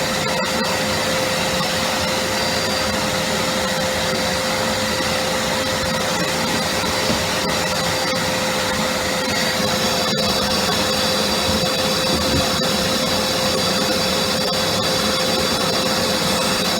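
Vacuum cleaner running steadily with a constant hum and a high whine, the whine shifting in pitch about halfway through as the suction changes.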